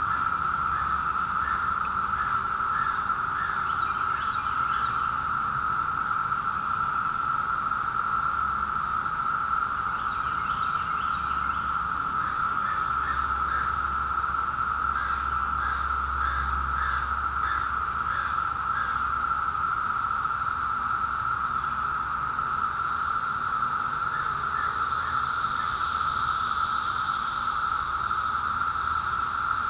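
Chorus of 17-year periodical cicadas: a steady, unbroken drone from many insects at once.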